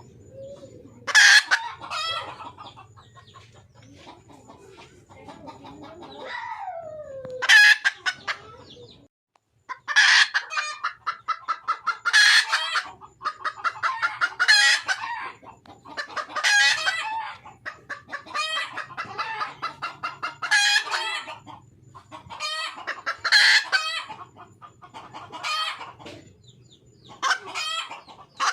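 Wild red junglefowl hen calling over and over, loud pulsed cackling calls coming every two to three seconds: a hen's call to attract a male.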